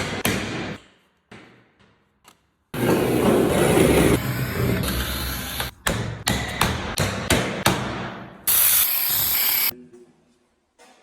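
Tile-work sounds in short abrupt clips: sharp knocks and taps, like a hammer or mallet on tile, broken by a longer stretch of dense tool noise and a brief hiss near the end.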